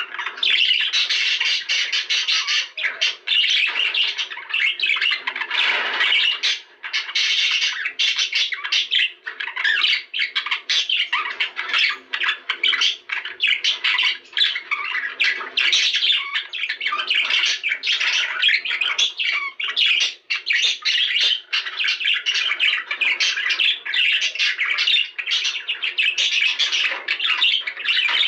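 Budgerigars chattering continuously, a dense stream of warbling chirps and squawks with no pauses.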